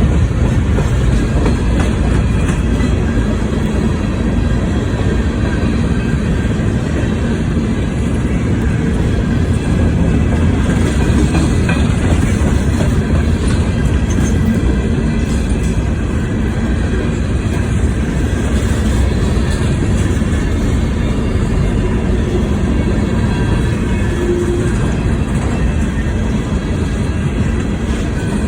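CSX freight train's cars rolling past on the rails: a loud, steady rumble and rattle of wheels on track.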